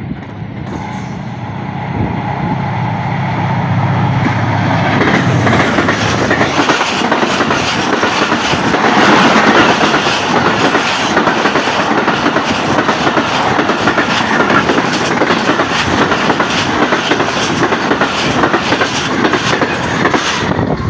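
Pakistan Railways ZCU30 diesel locomotive passing at speed, its engine drone heard for the first few seconds, then the coaches of the express going by with a steady clickety-clack of wheels over the rail joints, loudest about nine seconds in.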